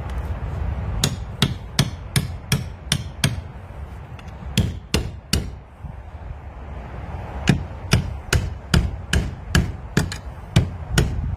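Hammer blows struck in quick runs of about three a second, three runs with short pauses between, forcing open a locked paybox.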